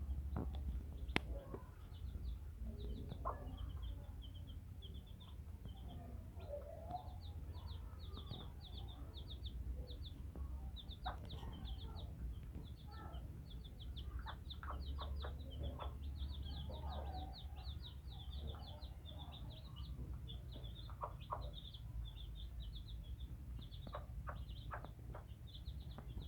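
A chick peeping: rapid runs of short, high chirps, with a few clusters of short taps from pecking at rice.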